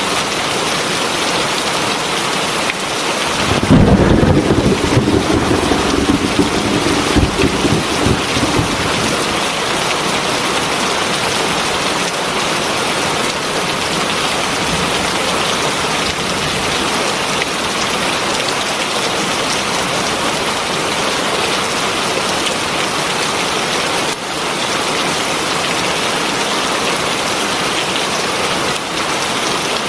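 Heavy rain falling steadily as a dense, even hiss. About three seconds in a roll of thunder breaks in with a sharp onset and rumbles for about five seconds before dying away under the rain.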